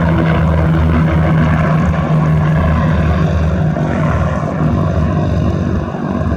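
Propeller airplane's engine running loudly close by, a steady drone with a strong low hum that thins a little near the end as the aircraft moves away.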